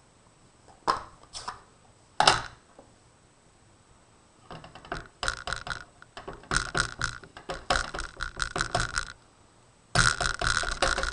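A few sharp plastic clicks, then runs of quick, light taps, about four or five a second, as a stamp on its block is tapped repeatedly onto a Stampin' Up! ink pad to ink it.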